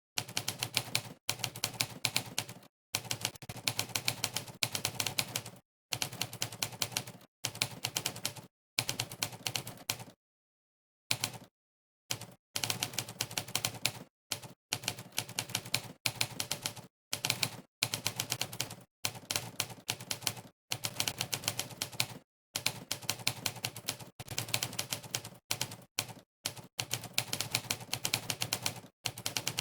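Typewriter keystroke sound effects from a typing test, one clack per key press, in fast runs of typing broken by short pauses. The longest pause comes about ten seconds in.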